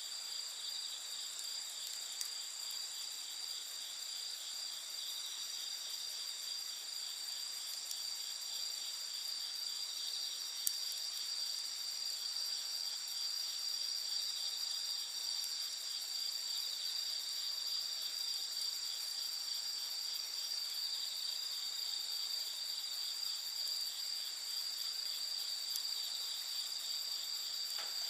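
Night insect chorus, crickets trilling steadily in several high-pitched layers, with a couple of faint sharp pops from the wood campfire.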